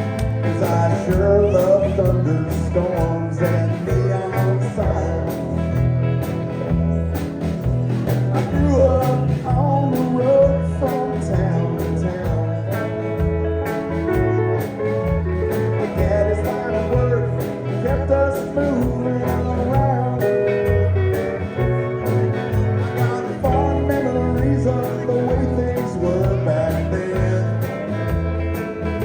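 A live band playing a country-blues song, with guitar over a steady bass and drum beat.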